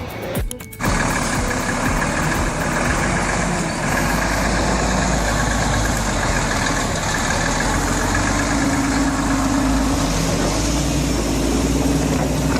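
Heavy truck engine running steadily under load, with a faint whine held over it. The sound starts abruptly about a second in after a brief dip.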